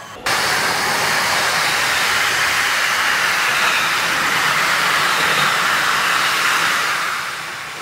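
Freight train of tall covered wagons passing close at speed: a loud, steady rushing hiss of wheels on rail. It starts abruptly and eases off near the end.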